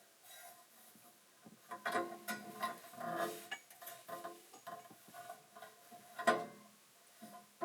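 Metal parts of a paper creasing machine being handled and set down: a series of irregular clinks and knocks, some with a short metallic ring. The sharpest comes about six seconds in.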